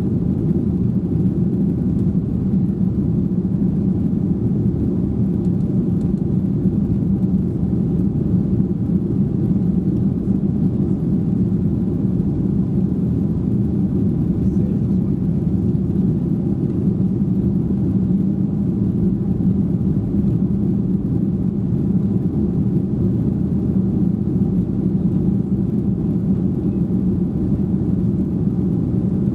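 Steady low drone inside the cabin of a Boeing 737-800 from its CFM56-7B engines and airflow, even in level throughout, with a faint steady hum above the rumble.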